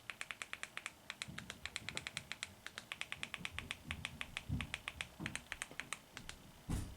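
Keys being typed on a keyboard: a fast, uneven run of light clicks with short pauses, mixed with a few soft low thumps.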